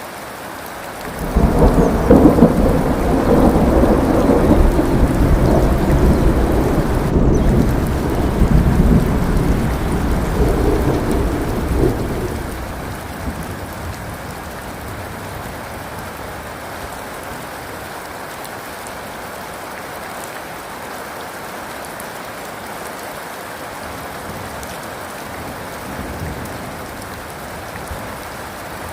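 Thunder rolls in about a second in, a long low rumble that swells and rumbles on for some ten seconds before dying away, over steady rain that continues alone for the rest of the time.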